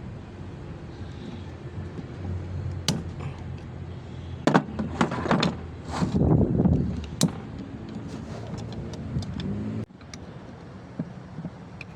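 Metal clinks and knocks from tools working on a truck's clutch booster, over a steady low hum. There is a louder clattering stretch about five to seven seconds in, and the sound drops off abruptly near ten seconds.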